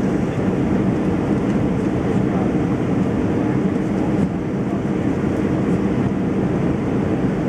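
Steady low rumble of engine and airflow noise inside the cabin of an Airbus A320-200 in flight.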